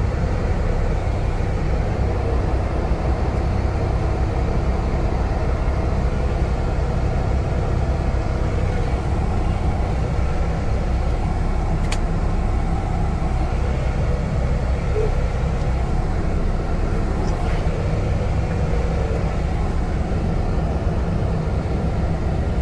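Semi-truck diesel engine idling with a steady low rumble, with a single sharp click about halfway through.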